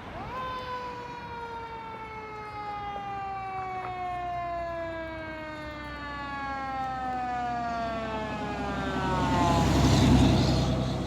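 Fire truck siren sounding one long wail: the pitch jumps up at once, then falls slowly and fades away. The truck's engine and road noise grow loud near the end as it goes past.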